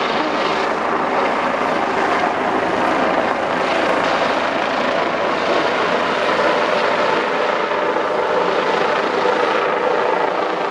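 Police helicopter running steadily, a continuous loud rotor and turbine noise with no rise or fall.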